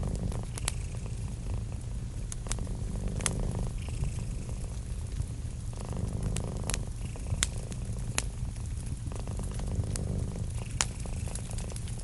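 Domestic cat purring steadily, the purr swelling and easing with each breath about every three seconds. Sharp pops and crackles of a wood fire come through at irregular moments.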